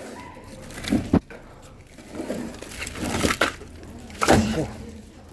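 Split oak firewood logs knocking together as they are handled and stacked. There are wooden clunks about a second in, a few more around three seconds, and the loudest one past four seconds.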